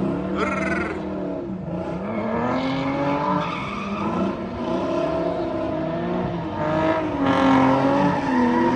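A car engine revving hard in a drift, its pitch swinging up and down with the throttle, with the tires squealing and skidding on the pavement.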